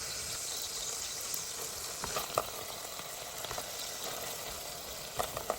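Food frying in a pan with a steady sizzle, with a few short knocks of a utensil against the pan about two seconds in and again near the end.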